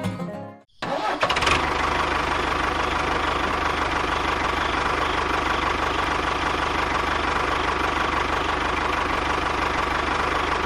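A small engine running steadily at an even speed, with a rapid low firing pulse and a steady whine. It cuts in abruptly just under a second in.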